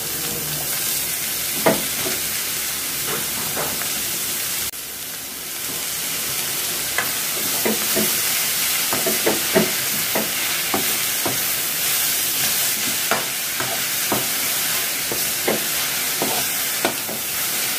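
Grated carrots sizzling in oil in a metal kadai while a metal spoon stirs them, with a steady hiss and frequent irregular knocks and scrapes of the spoon against the pan.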